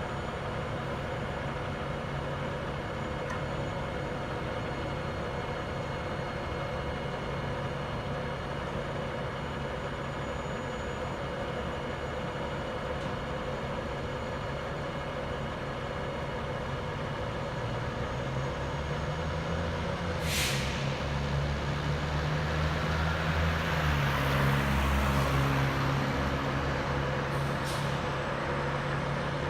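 Fire ladder truck's diesel engine running steadily, then revving up as it pulls away about two-thirds of the way through. Two short sharp air hisses, typical of the truck's air brakes, come partway in and near the end.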